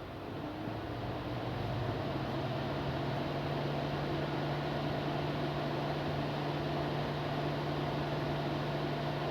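Opel Astra J's 1.4-litre turbo petrol engine (B14NET) running steadily, a constant hum that grows louder over the first two seconds and then holds. The owner suspects bearing damage behind the unusual engine noise.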